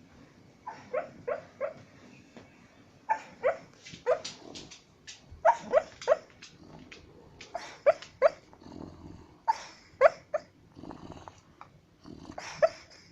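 A dog yipping and woofing softly in its sleep, in short yelps that come in twos and threes every second or two, each dropping in pitch. Low snoring breaths fill some of the gaps.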